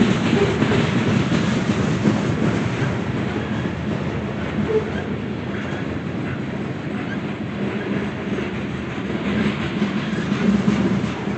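A train rolling past on the track: a steady, unbroken wheel-and-rail noise.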